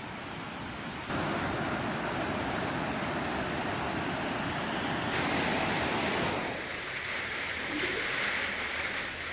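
Steady rushing noise of storm wind and surf. It jumps sharply in level about a second in, then changes abruptly again around five and six seconds in.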